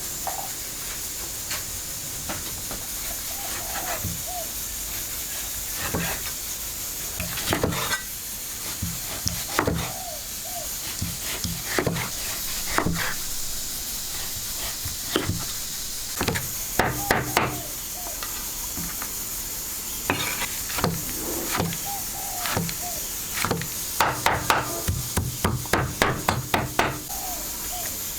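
Irregular sharp knocks on wood over a steady high hiss, with quick runs of strikes about two-thirds of the way through and again near the end.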